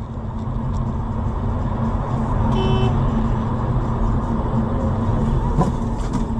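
Steady low rumble of a car driving, recorded by a dashcam, with a constant hum. A brief tone sounds about two and a half seconds in, and a sharp knock comes near the end.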